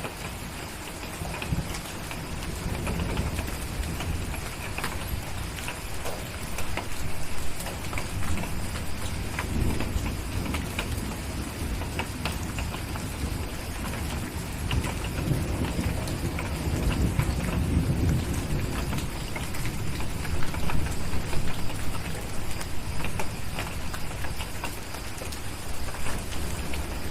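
Steady rain hissing, with low rolling thunder rumbles swelling and fading several times, and scattered sharp ticks throughout.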